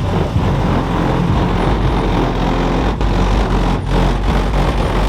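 A car engine running steadily close by, loud and low-pitched without revving up or down.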